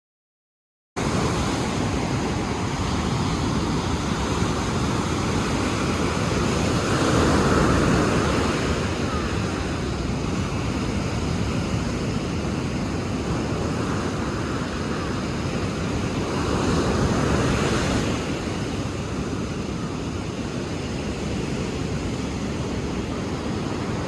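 Ocean surf: waves washing in as a steady rush, swelling twice. It cuts in abruptly about a second in and stops abruptly at the end.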